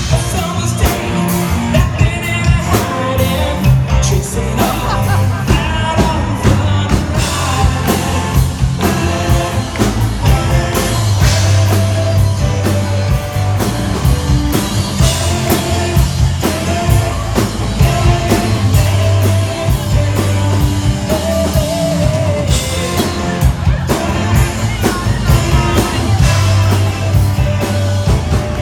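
Live rock band playing a song with a lead singer over a steady drum beat and bass.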